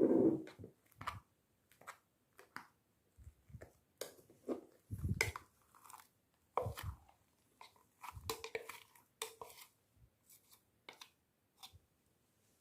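Slime being kneaded by hand as shaving foam is mixed into it, giving irregular short squishing and crackling sounds with brief pauses.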